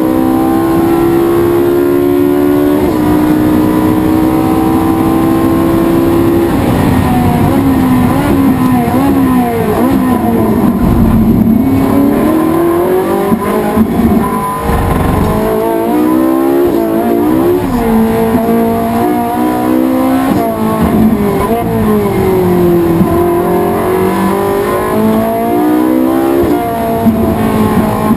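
Race car engine at speed, held at high revs for about six seconds. Then it drops in pitch and climbs again several times as the car slows for corners and accelerates out.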